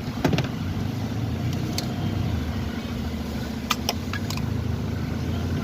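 Steady low hum of a running engine, with a few sharp clicks scattered through it as ignition coil connector clips are released.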